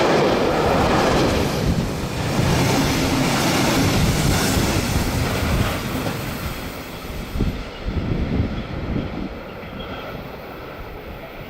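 A train running past on the rails, loud for the first half, then fading away after about six seconds, with a few low knocks as it goes.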